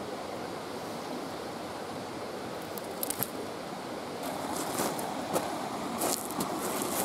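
Wood campfire burning: a steady rushing hiss with a few sharp crackles about three seconds in and a cluster more over the following seconds.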